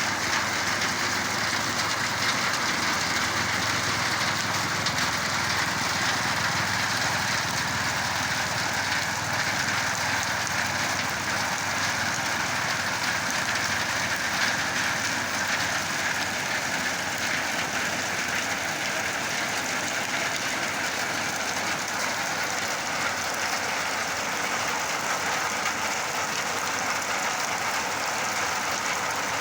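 Steady rain falling: a continuous, even hiss of rain on surfaces.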